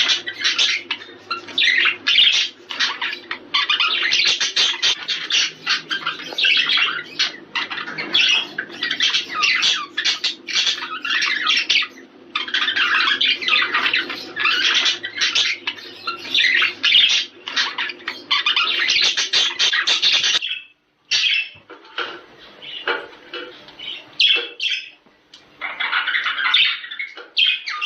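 Budgerigars chattering and warbling in a dense, continuous stream of rapid squawks and chirps: the excited chatter of budgies in breeding condition, used to stimulate pairs to mate. The chatter breaks off briefly about 20 seconds in and then resumes more sparsely.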